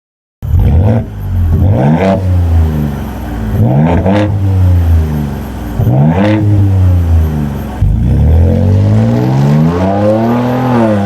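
Ford Ranger Raptor engine revved through its aftermarket HKS exhaust, showing off the new exhaust note. There are short rev blips about every two seconds, then a longer rev that climbs near the end and drops away.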